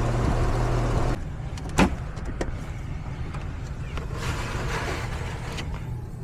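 Lennox heat pump outdoor unit running with a steady low hum. About a second in, the noise drops abruptly to a quieter hum, followed by a sharp click, a fainter click and some rustling.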